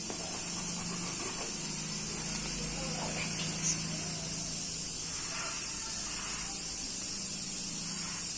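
Steady high-pitched hiss with a faint low hum underneath, unchanging throughout.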